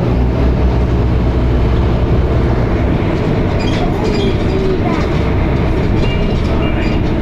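Dennis Arrow double-decker bus engine and ZF automatic gearbox running under way, heard from inside the saloon as a loud, steady low drone with rattling. The engine note changes about three seconds in. Short high beeps come near the end.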